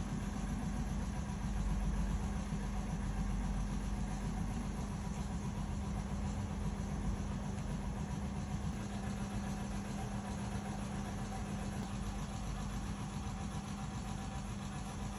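Steady machine hum: a constant low tone over a rumble, without change.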